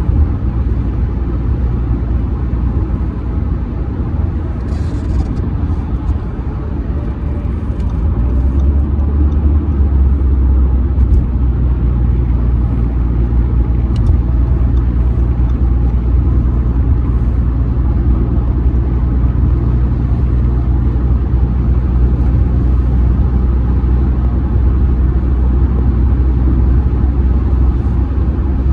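A 2007 Audi A6 C6 with a 2.0 TDI four-cylinder turbodiesel and Multitronic automatic, driving at highway speed. Engine, tyre and road noise make a steady low rumble that grows louder about eight seconds in and then holds.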